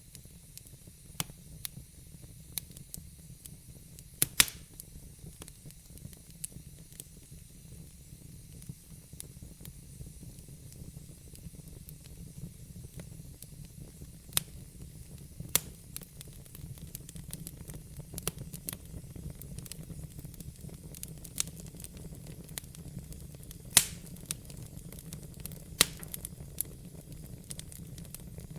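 Wood fire burning in a fireplace: a steady low rumble and hiss with frequent small crackles and a few sharp louder pops.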